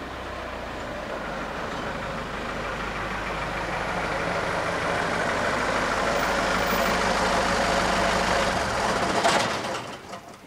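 Regional train approaching a level crossing, its engine and running noise growing steadily louder for about nine seconds, then cutting off abruptly near the end.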